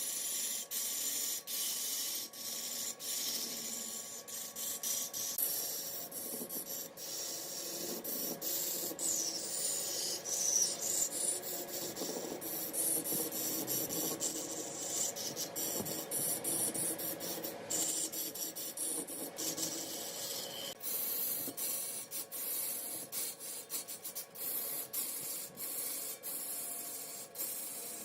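Wood being worked on a big wood lathe: a steady rasping, scraping noise of tool or abrasive on the spinning wood, with many quick clicks throughout.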